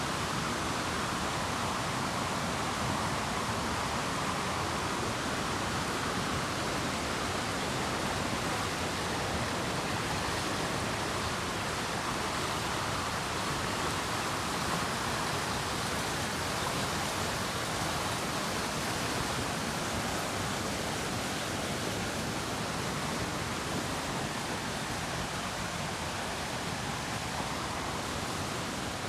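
River rapids rushing in a steady, even roar of white water.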